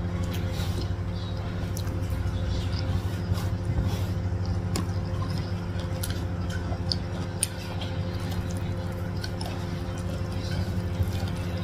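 Close-up eating sounds: chewing with wet, squishy mouth noises and frequent small clicks as rice and flat rice noodles are eaten by hand, over a steady low hum.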